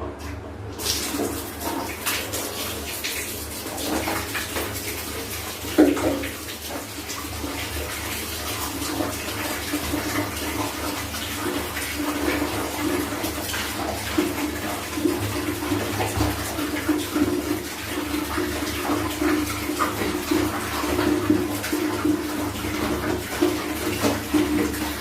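Water splashing and running while clothes are washed by hand, with a continuous wash of water noise and many small wet slaps and knocks, one louder knock about six seconds in.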